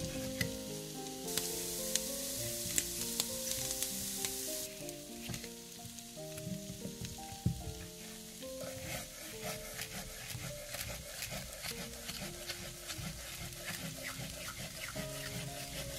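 Chopped vegetables frying in olive oil in a pan. A strong sizzle a second or so in lasts about three seconds, then settles into a lighter sizzle with quick ticks of the pan being stirred from about halfway through.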